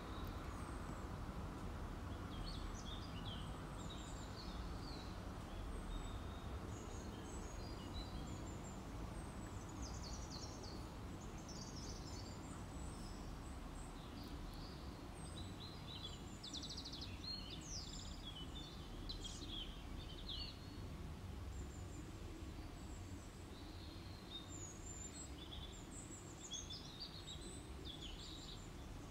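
Birds chirping in short, scattered calls over a low, steady background noise.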